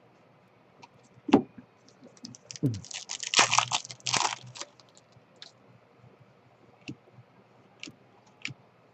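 A sharp tap about a second in, then a foil trading-card pack being torn open and crinkled for about two seconds, followed by a few light clicks.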